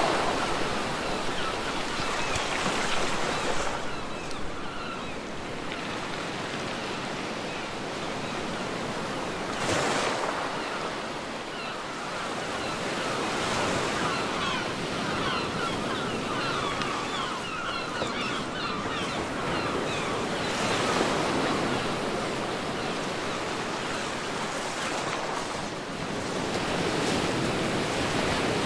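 Ocean waves breaking and washing up a beach, a continuous surf noise that swells and eases every few seconds.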